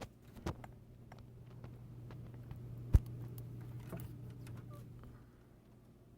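Casablanca Venus ceiling fan's Emerson K55 motor humming steadily, with a few clicks and one sharp, loud click about three seconds in.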